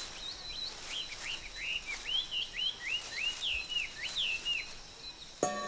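A forest songbird sings a quick run of about a dozen short, curving whistled notes over a steady high-pitched tone in the background. Near the end, droning music notes come in.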